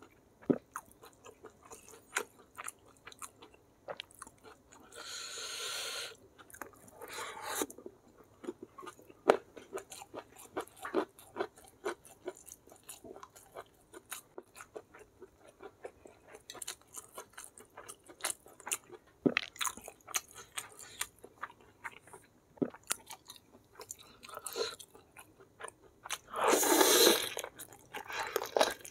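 Close-miked eating: a person chewing and biting food, with many short wet clicks and smacks, and two longer, louder noisy stretches about five seconds in and near the end.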